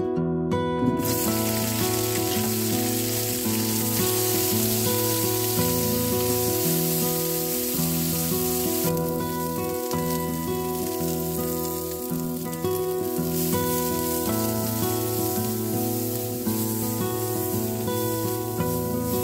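Shishito peppers dropped into hot oil in a nonstick wok and frying: a loud sizzle starts about a second in as they hit the oil and eases somewhat after about nine seconds as they are stir-fried. Acoustic guitar music plays underneath.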